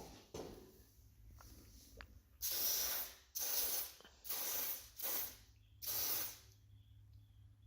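Aerosol can of garage door lubricant spraying through its nozzle in five short hissing bursts onto the door's hinge joints, lubricating them to stop the door squeaking.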